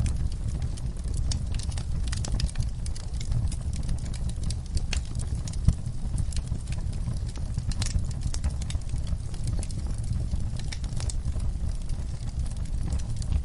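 Wood fire crackling in a fireplace: a steady low rumble of flames with irregular sharp pops and snaps, one louder pop a little before the middle.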